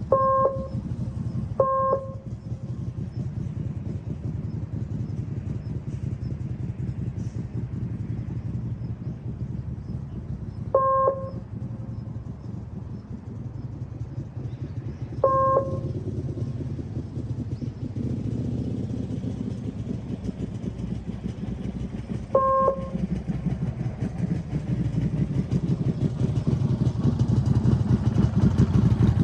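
Small motorcycle engine running at low speed around a practice course, with the engine note growing louder near the end as the throttle opens. Five short, loud beeps sound at irregular intervals over it.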